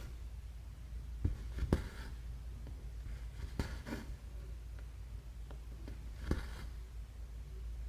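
Cross stitching by hand: the needle pokes through the stamped fabric and the thread is drawn through it with a soft rasping pull, three times, each with a small click of the needle.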